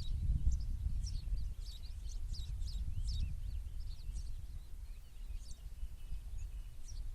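Small songbirds chirping and twittering in quick, short notes, many calls overlapping, over a steady low rumble.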